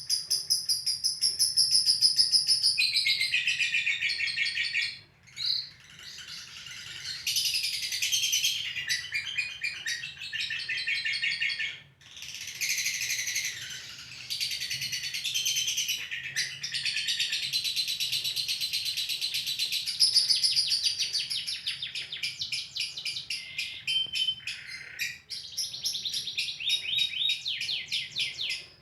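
Lovebird singing 'ngekek': a long, rapid, high-pitched chattering trill kept up in long runs, broken only briefly about five seconds in and again about twelve seconds in.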